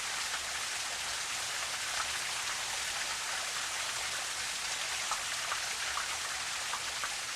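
Steady splashing of running water, an even hiss with scattered small drips and patters.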